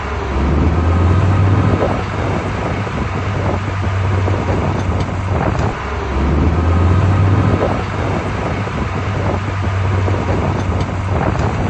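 Diesel engine of heavy earthmoving equipment running with a deep, steady drone that swells and eases twice as the load changes.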